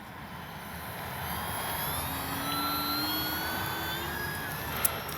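The electric brushless motor and propeller of an FMS Cessna 182 Skylane RC model plane in flight, a steady whirring hum that grows louder. Its whine rises slowly in pitch in the middle.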